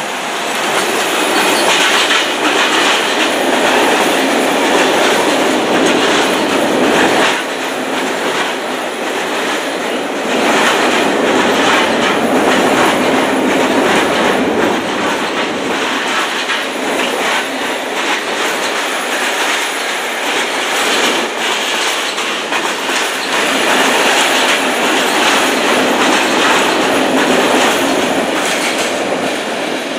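Freight train passing close by: a loud, continuous clatter of wagon wheels over the rails, with a thin high wheel squeal above it. It swells quickly at the start and stays loud throughout.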